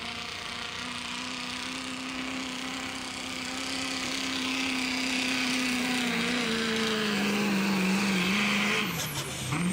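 A diesel pickup truck's engine at full throttle pulling a weight-transfer sled. It holds a steady pitch, then bogs down in pitch as the load builds, with a rising hiss joining it about halfway. Near the end the throttle is let off.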